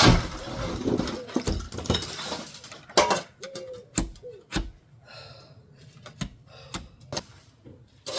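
Irregular knocks, taps and scraping of tools against an old wooden window frame and its glass pane as the pane is worked loose, with a brief squeak about three and a half seconds in.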